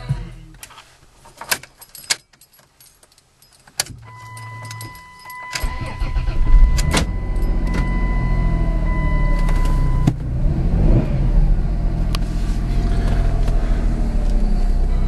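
Keys jingle and click in the ignition, a steady electronic tone sounds for several seconds, and about five to six seconds in the 2000 Chrysler Voyager minivan's engine starts and settles into a fast idle.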